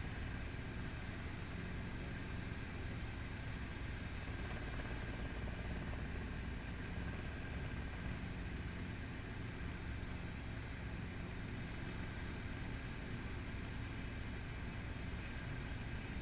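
Helicopter engine and rotors running, a steady unbroken drone.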